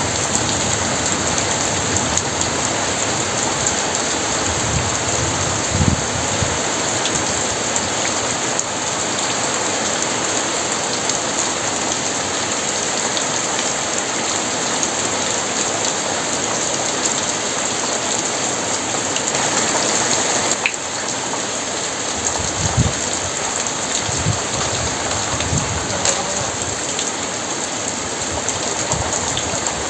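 Very heavy rain falling steadily, with a few brief low thuds about six seconds in and again past twenty seconds.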